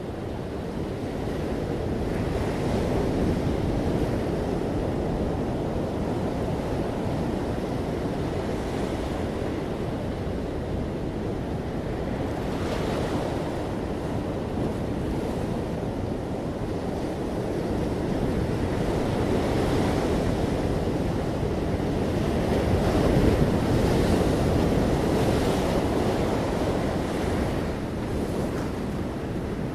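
Ocean surf: waves breaking and washing in a continuous rushing hiss that swells and eases, with the loudest surge a little past two-thirds of the way through.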